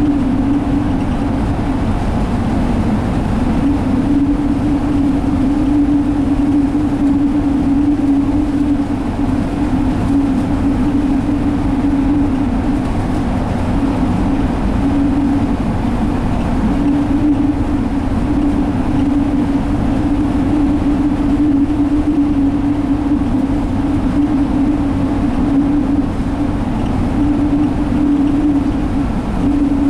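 Alexander Dennis Enviro500 double-decker bus, Cummins ISL diesel with Allison automatic, running at a steady speed, heard from inside: a low drone with a steady hum plus road and tyre noise.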